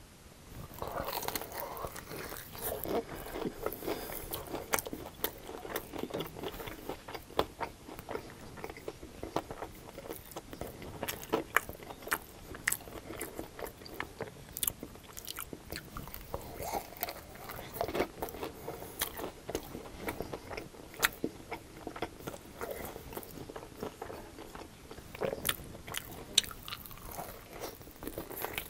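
Close-miked eating of crispy breaded fried chicken wings dipped in sauce: crunching bites and chewing, with many sharp crackles throughout.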